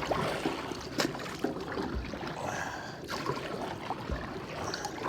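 River water rushing and splashing around a kayak as it is paddled through moving water, with a couple of sharp knocks.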